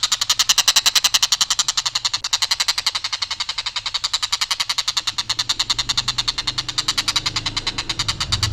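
Tengkek buto kingfisher giving its long, harsh, single-pitch rattling call: a rapid, even string of rough notes, about a dozen a second, with no variation in pattern. A low hum joins about halfway through.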